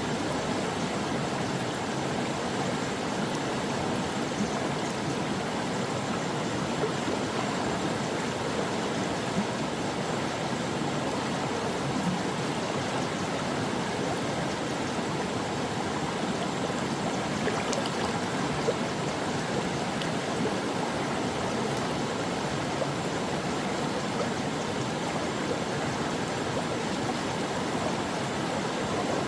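A stream of water flowing and burbling over rocks, a steady rush with small splashes.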